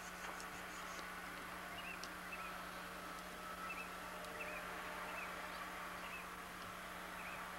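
Faint short bird chirps, repeating every half second or so, over a steady low hum.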